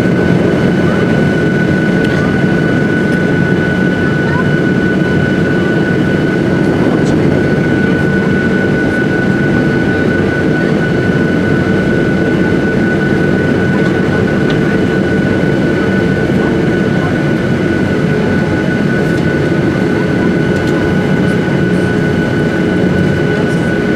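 Steady jet engine and cabin air noise inside a Boeing 737-800 airliner at low power, with a constant high whine over an even rush and hum. It holds level throughout, with no spool-up.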